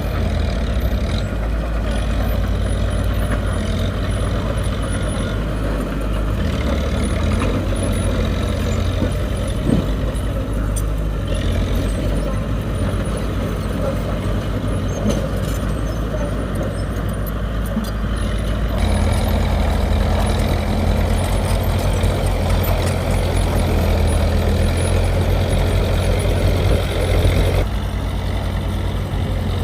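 Diesel engines of heavy earthmoving machinery running steadily under work. The sound changes abruptly about two-thirds of the way through, becoming heavier in the low end.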